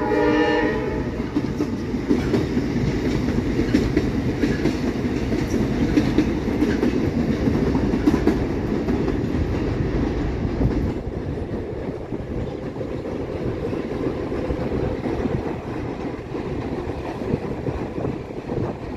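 Amtrak passenger train passing close by: a train horn blast trails off about a second in, then a steady rumble of wheels on rail with clickety-clack, easing off somewhat after about eleven seconds as the train draws away.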